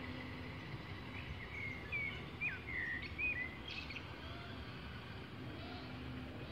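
A songbird calling a run of short, swooping chirps from about a second in, lasting about two seconds, over steady outdoor background noise.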